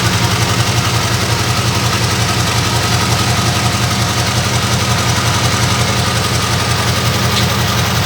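Scania LK truck's V8 diesel engine idling steadily, with an even, rapid pulse.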